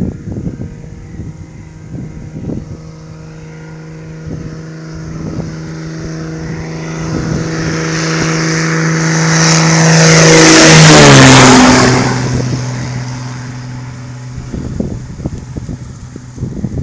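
Single-engine Cessna 210's piston engine and propeller at takeoff power, passing close by: a steady engine drone grows louder, peaks about two-thirds of the way through, then drops in pitch and fades as the plane goes past. Wind buffets the microphone at the start and near the end.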